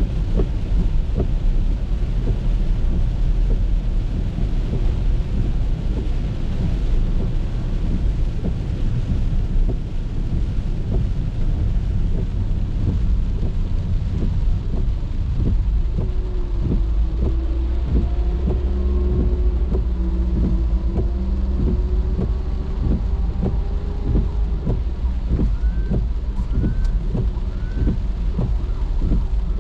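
Car driving in the rain: rain ticking and pattering on the car over a steady low rumble of the car and wet road. In the second half a faint drawn-out tone rises slowly, and near the end there are three short rising chirps.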